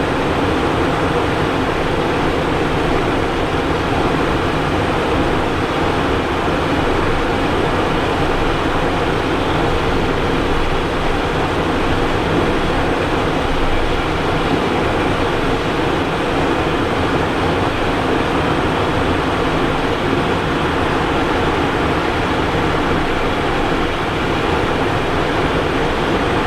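Steady in-flight cockpit noise of a Cessna Citation Encore business jet: an even rush of air and engine noise that does not change.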